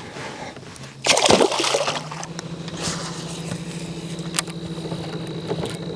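A splash in the water about a second in, then a steady low motor hum from the boat.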